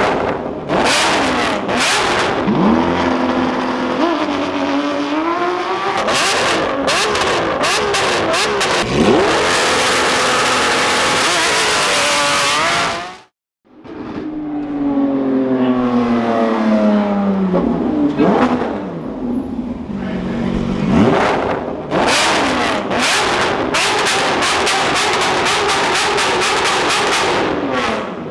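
Lamborghini Aventador SVJ's V12 with a Novitec exhaust revving and accelerating hard, pitch climbing and falling through the gears, with rapid crackles and pops from the exhaust. The sound cuts out briefly about halfway through.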